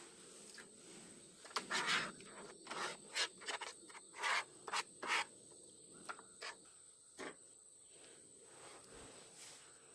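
About a dozen short, irregular scraping strokes over some five seconds, something being rubbed or rasped by hand.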